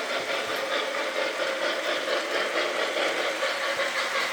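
Model trains running around the layout: a steady whir of their electric motors and wheels on the track.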